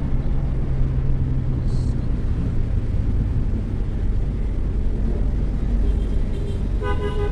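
Steady low rumble of a vehicle driving on the road, with a hum in the first few seconds. A vehicle horn sounds near the end.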